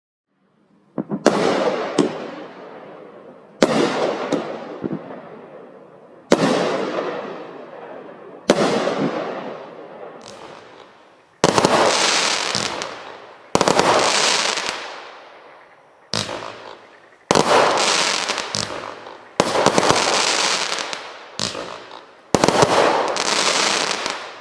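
Sky King 'Prince' 200-gram 25-shot firework cake firing: a series of sharp aerial bursts about every two seconds, each dying away over a second or two, starting about a second in and ending just before the close.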